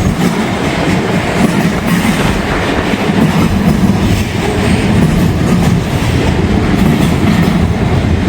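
Freight train of rail cars rolling past close by, a steady loud rumble with wheel clatter. The cars are those of a continuous welded rail train loaded with long rail strings.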